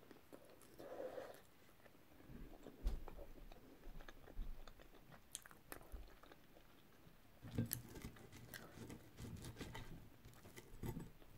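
Quiet close-up chewing and biting of a full English breakfast, with scattered sharp clicks; the chewing grows denser about seven and a half seconds in.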